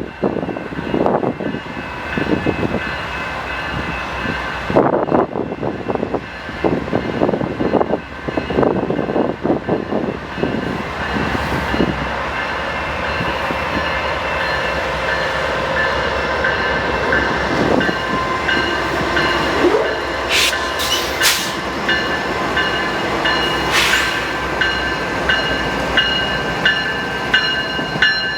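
Train passing, with a steady high whine throughout. Irregular clanking runs through the first dozen seconds, and regular clacks come about once a second near the end.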